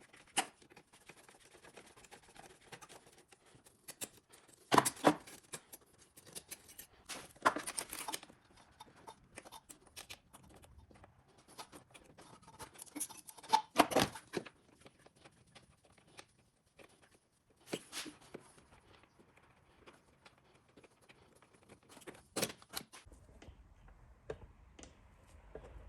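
Scattered clicks, knocks and small rattles of hand work on small parts, with a few sharper knocks standing out.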